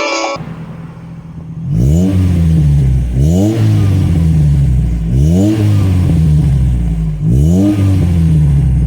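Rover Metro engine revved through its new exhaust: four quick blips, each rising sharply and falling back to idle, with the engine idling steadily between them.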